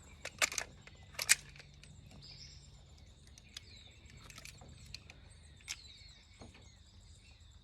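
Birds chirping faintly, with a few sharp clicks and taps: a cluster in the first second and a half and one more later on.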